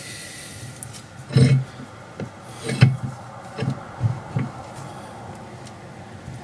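A handful of short, dull metallic knocks and clinks, about five spread over a few seconds, from a bar, wheel nut and stacked washers being handled on an MGA rear hub as the nut is turned to take up tension on the wheel stud.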